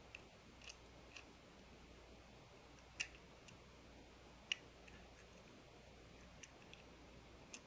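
Near silence broken by a few faint, sharp clicks and taps of a small die-cast toy car being handled, the clearest about three seconds in and another about a second and a half later.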